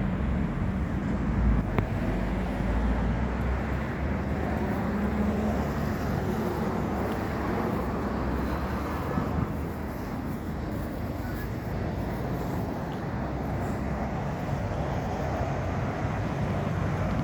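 Scania K450 diesel bus running, a steady low rumble with no marked revving.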